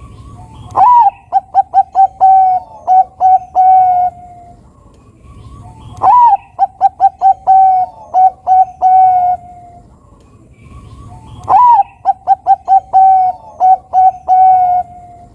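Zebra dove (Bangkok-type perkutut) singing three songs about five seconds apart. Each opens with an upward-swooping note, then a quick run of short coos, and ends on a longer held coo.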